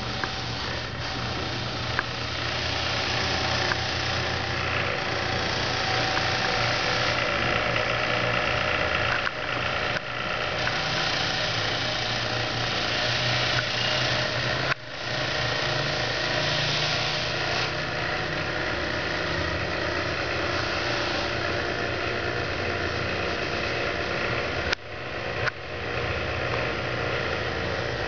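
An engine running steadily, with a low steady hum under a wide noisy rush, broken twice by brief drops.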